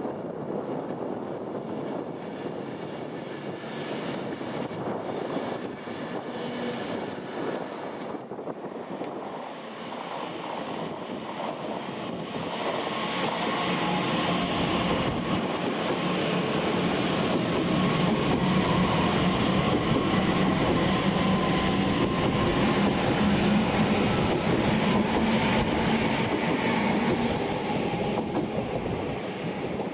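Train running on rails, a continuous rumble that grows louder about twelve seconds in, where a steady hum joins it, then eases slightly near the end.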